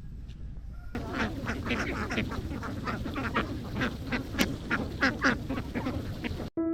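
A large flock of domestic ducks quacking, many calls overlapping densely; the quacking gets fuller and louder about a second in, then cuts off suddenly just before the end.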